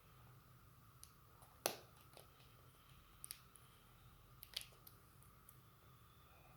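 Faint scattered clicks and taps of small parts being handled at a workbench, over a low steady hum. The sharpest click comes about a second and a half in, with a couple more near the middle.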